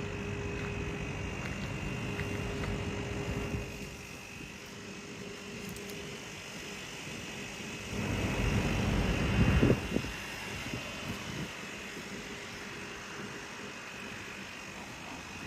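Toshiba THR-100P40 kerosene-fired heat source unit running: a steady whirring hum with a faint high tone, louder for about two seconds past the middle before settling back.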